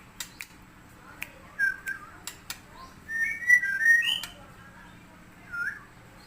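White-rumped shama (murai batu) singing: short whistled notes with sharp clicks between them, and a louder run of warbled, pitch-shifting notes about three to four seconds in.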